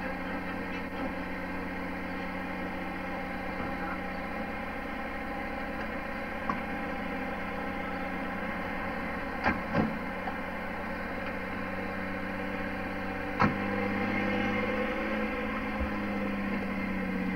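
Four-wheel-drive's engine idling, with car doors shutting about halfway through (two close together and another a few seconds later). Near the end the engine note rises as the car moves off towing the boat trailer.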